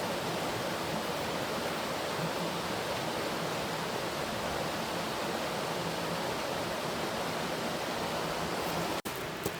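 Steady rushing noise, even and unbroken, that cuts off abruptly near the end.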